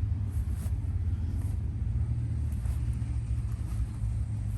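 Footsteps swishing through grass, about one step every half to one second, over a steady low rumble.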